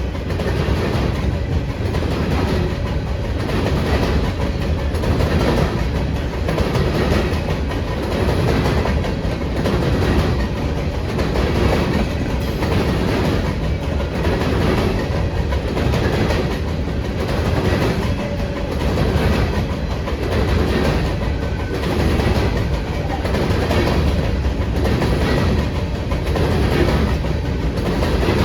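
Train cars rolling past, their wheels clacking over the rail joints in a steady repeating rhythm.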